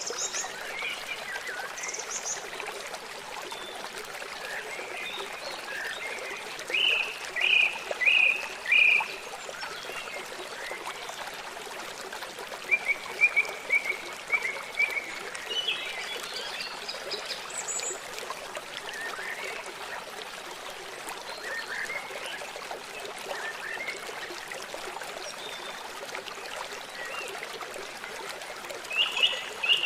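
Songbirds chirping over the steady rush of flowing water. A run of four loud chirps comes about seven to nine seconds in, a quick trill of notes around thirteen to fifteen seconds, and another cluster of chirps near the end.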